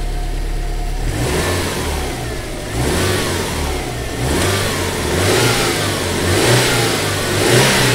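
Subaru Impreza WRX STI (GDB) 2.0-litre turbocharged EJ207 flat-four idling, then revved by hand at the throttle linkage from about a second in. It gives several blips, each rising and falling back to idle, and runs without any unusual noise.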